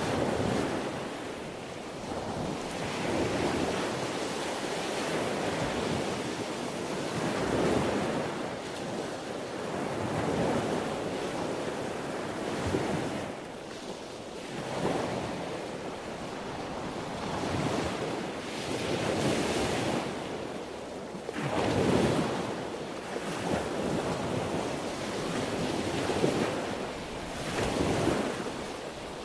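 Sea waves breaking and washing on the shore in a continuous rush that swells and ebbs every few seconds, with a few stronger surges.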